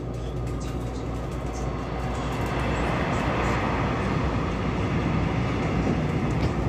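A Taiwan Railways train passing close alongside on the next track, heard from inside another train: a steady rumble that grows louder about two and a half seconds in.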